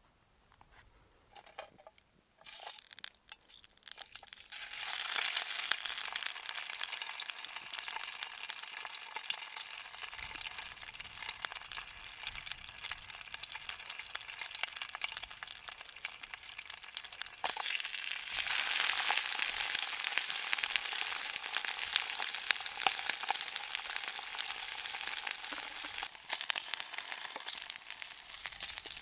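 Slices of Spam frying in hot oil in a non-stick pan. A few sputtering crackles come a couple of seconds in, then a steady sizzle from about five seconds that grows louder a little past halfway.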